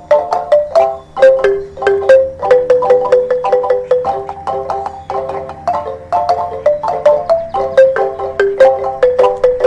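Mallet-percussion music, a marimba or xylophone, playing a quick, steady stream of short struck notes.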